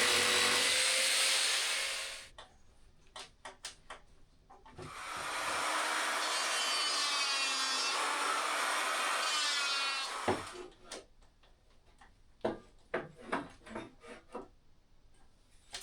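Electric jigsaw cutting 15 mm plywood: one cut ends about 2 seconds in and a second runs from about 5 to 10 seconds in, with scattered knocks and taps of wood being handled between and after the cuts.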